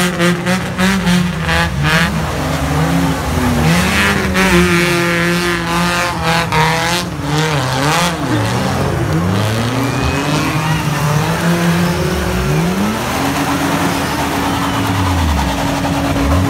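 Engines of several off-road 4x4s revving hard in deep mud, their pitch climbing and dropping again and again as the drivers work the throttle to spin the wheels and break free.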